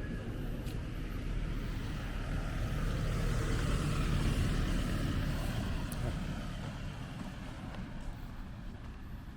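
A motor vehicle passing on the street, its engine and tyre noise building to a peak about four seconds in, then fading away.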